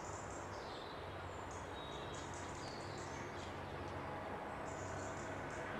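Small songbirds chirping and twittering in quick, overlapping high notes over a steady background rush.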